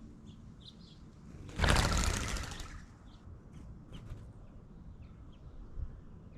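Small birds giving short, faint chirps, with one loud rushing burst of noise about a second and a half in that lasts about a second and fades out.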